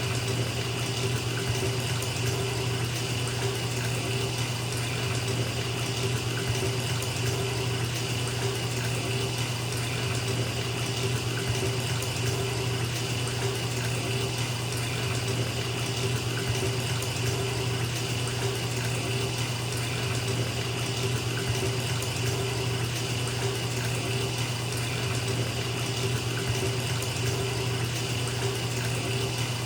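Bathtub filling from a running tap, water splashing steadily into the water already in the tub.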